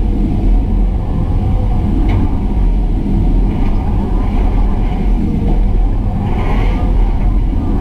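Excavator's diesel engine running steadily under load, with a few faint clicks and a brief higher hiss near the end.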